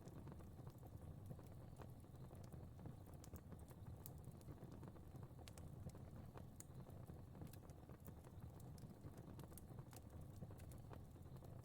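Fire crackling in a fireplace: a soft, steady low rumble of flames with irregular sharp pops and crackles throughout.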